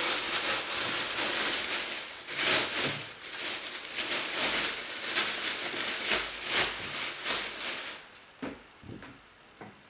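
Rustling and crinkling of clothes being handled and moved about for about eight seconds, then it stops, leaving a few soft knocks near the end.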